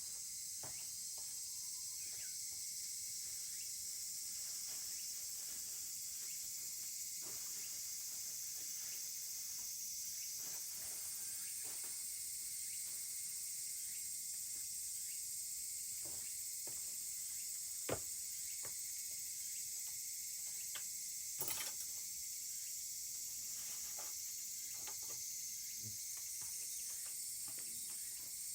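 Steady high-pitched chorus of insects, with scattered small crackles and pops from a wood campfire; two louder pops stand out about two-thirds of the way through.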